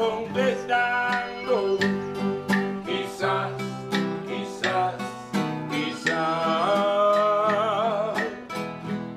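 Live acoustic guitar music, a run of plucked and strummed notes at an even pulse, with a singing voice with vibrato coming in past the middle.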